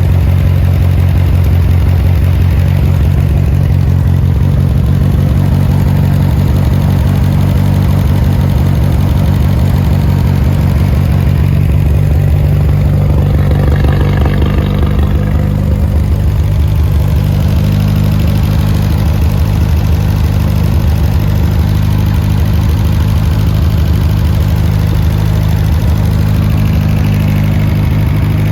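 1969 Adams Probe 16's engine idling steadily on its first run after more than 40 years dormant.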